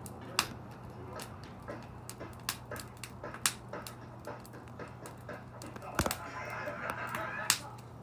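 Wood fire crackling, with irregular sharp pops several times a second and louder snaps now and then. A softer rustling hiss rises about six seconds in and fades by seven and a half.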